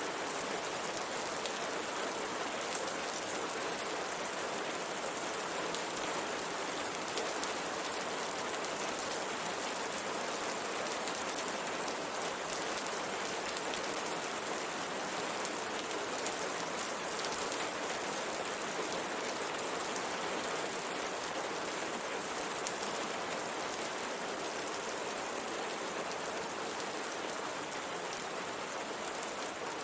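Steady rain pattering on a window, with scattered drops ticking on the glass.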